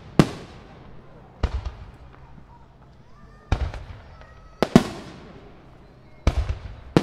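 Aerial firework shells bursting: five sharp booms a second or two apart, each trailing off in a rolling echo, and another right at the end.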